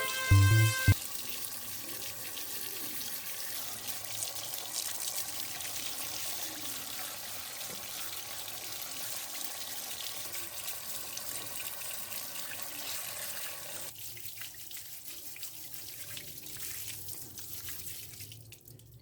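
Water running steadily, as from a tap over a sink. It thins out after about fourteen seconds and fades away near the end. A short end of background music sounds in the first second.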